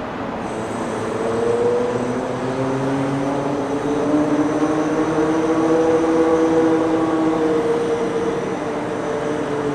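Aircraft flying over with a steady engine drone. Its pitch climbs slowly and then eases back down, and it is loudest in the middle.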